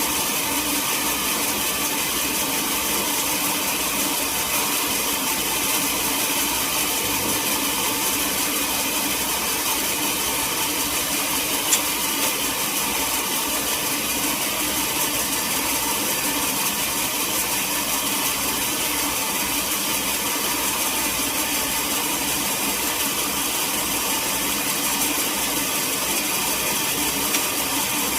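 Sawmill machinery running steadily, with one sharp click about twelve seconds in.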